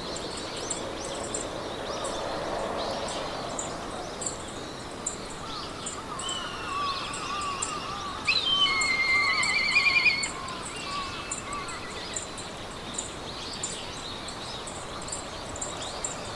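Meadow ambience: a steady hiss of wind in the grass with small birds singing, and a fast, high ticking throughout. A louder trilled bird song phrase comes about eight seconds in and lasts about two seconds.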